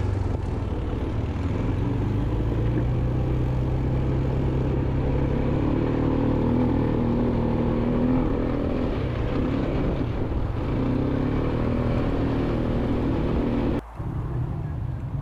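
A motor vehicle's engine running steadily, with a brief dropout near the end.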